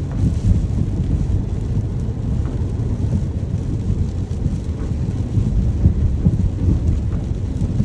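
Rain with a continuous low rumble of thunder: an even, steady noise heavy in the low end, with no sharp claps.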